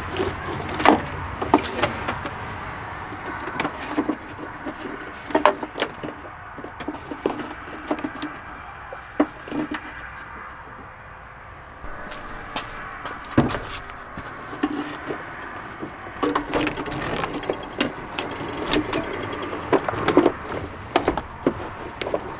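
Irregular clicks, knocks and light clatter of hand tools and parts being handled, with no steady rhythm.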